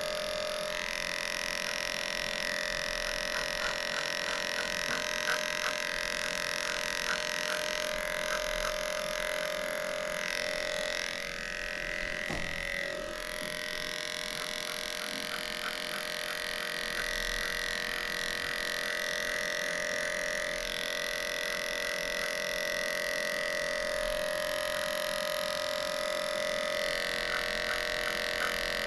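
Electric dog-grooming clipper running with a steady hum as it shaves a matted coat, with light ticking at times; the hum dips briefly about eleven seconds in.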